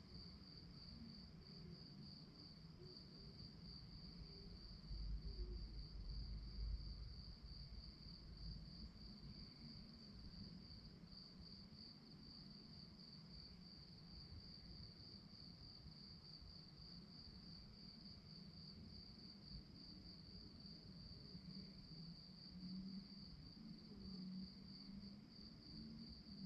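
Crickets chirping in a steady, rapidly pulsing trill, with a brief low rumble about five seconds in.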